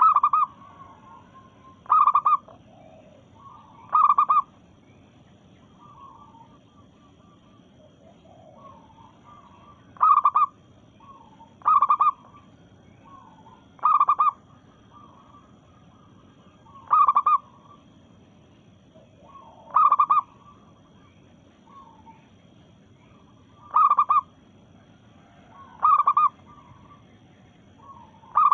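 Female zebra dove (perkutut) calling: a series of short, loud coos repeated about every two seconds, with a longer pause a few seconds in, and softer cooing notes in between.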